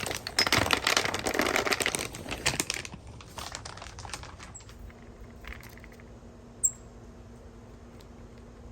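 Crackling, rustling noise for about three seconds, then a couple of short, sharp high chirps from a small bird.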